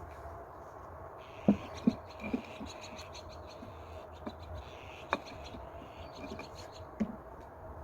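Scraping with scattered sharp knocks, several close together near the start and a couple more later, over a faint steady hum.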